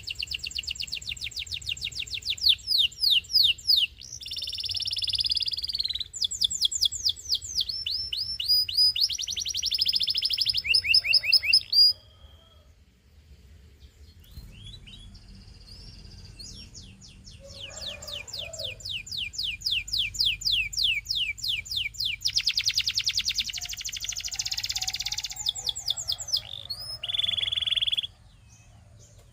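Domestic canary singing: fast trills and runs of rapidly repeated high notes, changing from one phrase to the next. The song breaks off a little under halfway through for about two seconds, then resumes and stops shortly before the end.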